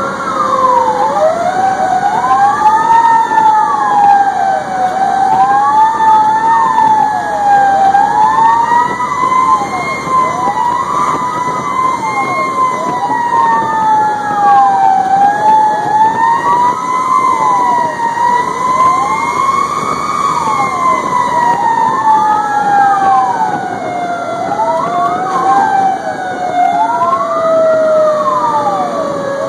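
Fire engine sirens running throughout: one slow wail rising and falling over several seconds, with a second, faster up-and-down sweep over it.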